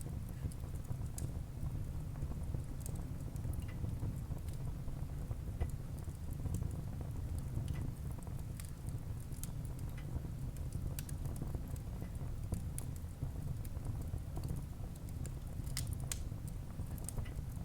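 Wood fire burning in a fireplace: a steady low rumble of flames with scattered crackles and small pops, a few sharper pops near the end.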